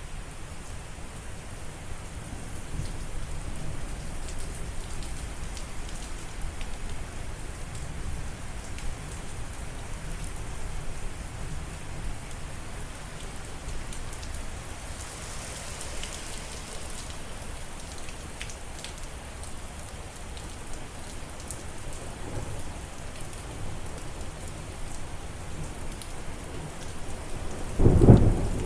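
Steady rain falling on a surface, with thunder rumbling low underneath. Near the end a loud, sudden clap of thunder breaks in.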